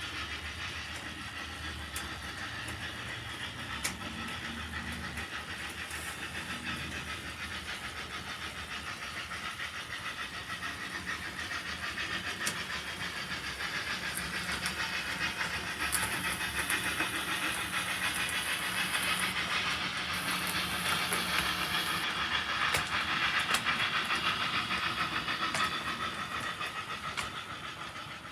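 HO scale model train running on track, a steady rolling hiss with occasional faint clicks. It grows louder through the middle and fades near the end.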